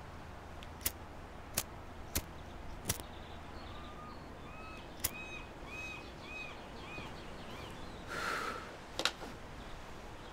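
Faint outdoor ambience with a bird calling in a run of about five short repeated notes. A handful of sharp clicks fall through it, and there is a brief hiss about eight seconds in.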